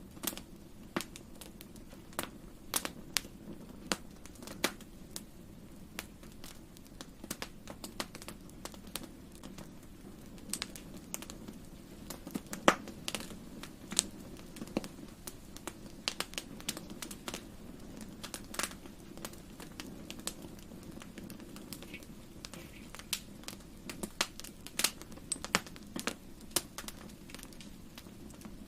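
Fire crackling in a fireplace: irregular sharp pops and snaps, a few of them louder, over a low steady rumble.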